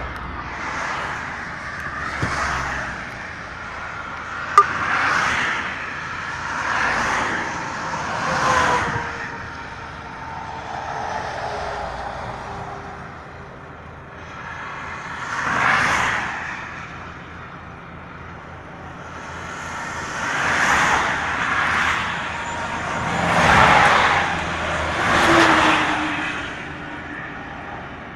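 Road traffic, vehicles passing one after another, each swelling and fading, with a falling tone from one passing vehicle near the middle and another near the end. A single sharp click sounds about four and a half seconds in.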